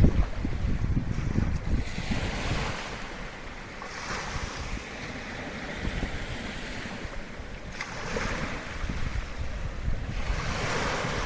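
Small waves breaking and washing up the shore of a sheltered bay, swelling and fading in several soft surges. Wind buffets the microphone with a low rumble, heaviest in the first couple of seconds.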